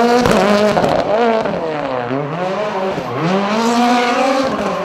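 Rally car engine under hard acceleration, its pitch climbing and then dropping sharply four times as it shifts through the gears.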